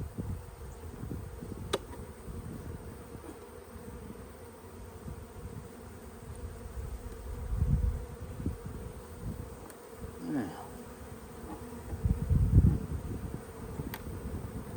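Honey bees buzzing steadily around an open hive. A falling buzz sweeps down about ten seconds in, and two low thumps come around eight and twelve seconds in, the second the louder.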